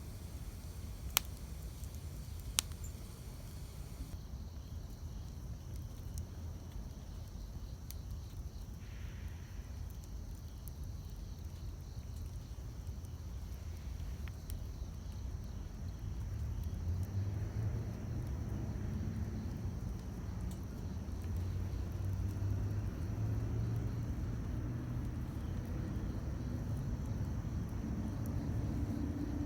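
Campfire burning, with two sharp crackling pops in the first few seconds over a low steady rumble. From about halfway through, a low engine drone comes in and grows louder.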